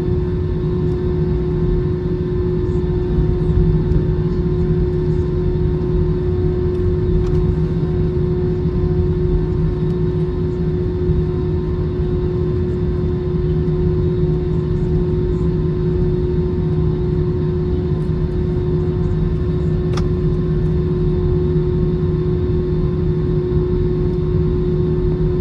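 Airbus A321 cabin noise while taxiing after landing: a steady rumble with a constant low hum from the idling engines and air conditioning. There is a single sharp click about twenty seconds in.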